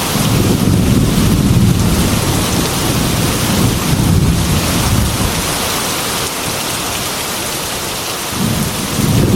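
Heavy rain falling steadily with low rolling thunder rumbling through it, swelling at the start, again a few seconds in, and once more near the end.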